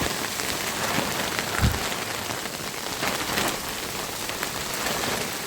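Rain falling steadily, with scattered close drop hits and one low thump about a second and a half in.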